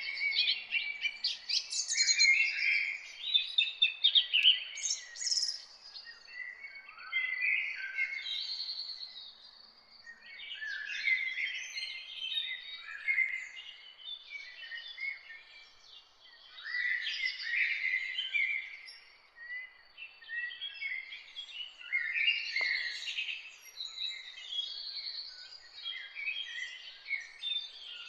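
Birds chirping and singing in a busy chorus of high, quick overlapping chirps and trills, coming in bursts with short lulls.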